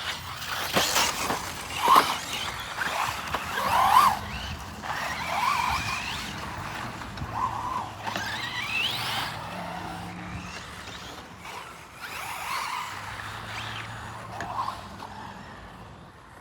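Radio-controlled cars running on a track: motor whines rise in pitch as they accelerate, with tyre scrubbing on the surface and a few sharp knocks, the loudest about two and four seconds in.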